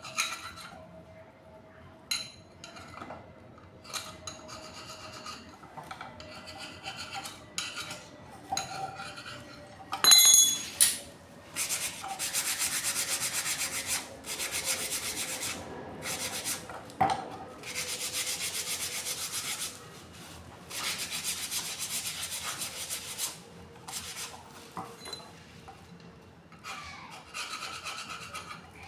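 Abrasive rasping and scraping on water-pump parts, mostly in even bursts of about two seconds each, with lighter scraping between. A sharp metallic clank rings out about ten seconds in.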